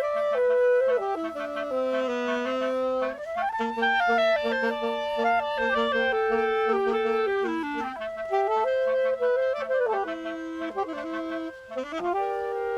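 Woodwind trio of flute, clarinet and saxophone playing together, several melodic lines moving against each other in sustained notes, with a short break in the sound near the end.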